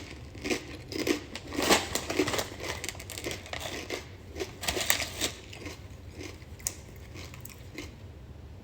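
Snack packaging crinkling and rustling as it is handled, with irregular clicks and taps, busier in the first few seconds and thinning out later.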